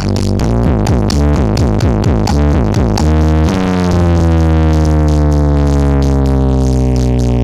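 Loud electronic dance music with a fast, choppy beat, played through a large 'horeg' sound system. About three and a half seconds in, the beat drops out and a long, deep bass chord holds.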